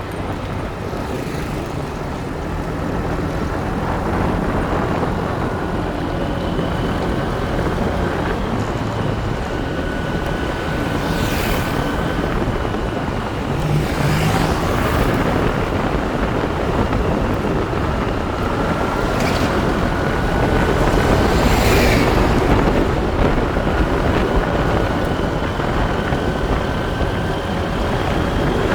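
Motorbike riding along a road, its engine note under heavy wind rush on the microphone. Several brief whooshes pass along the way.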